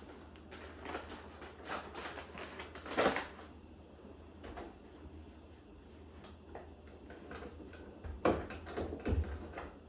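Light knocks and clatters of household items being handled, in two bunches: several in the first three seconds, the loudest just after three seconds in, then another bunch near the end.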